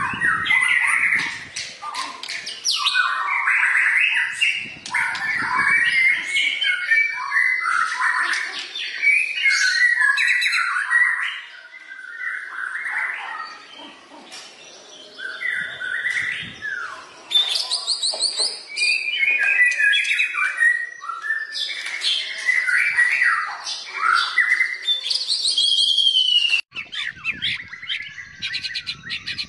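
White-rumped shama (murai batu) singing a long, varied song of loud whistled phrases and fast high trills, with a quieter stretch about midway.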